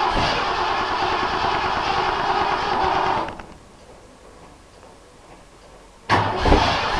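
Starter cranking a 1959 Ford F100's V8 over, a hard-starting engine: it cranks for about three seconds, stops, then cranks again about six seconds in.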